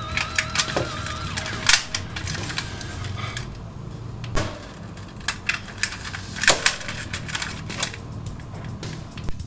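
Hard plastic parts of DX Megaranger mecha toys clicking and clacking as they are handled, with a dozen or so sharp clicks at irregular intervals and a warbling tone in the first second or so.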